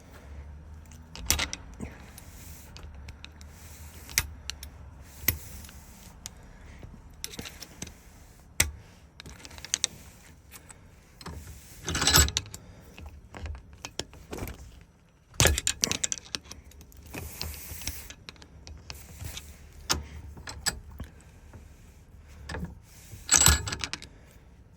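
Keys and small metal lock parts clicking, clinking and rattling as a Ford lock cylinder is handled and worked on for rekeying. The sharp clicks are scattered, with louder bunches of rattling about halfway through, a few seconds later, and near the end.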